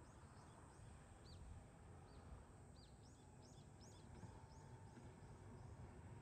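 Faint chirping of small birds, many quick high notes that come thickest in the middle, over a low steady background hiss.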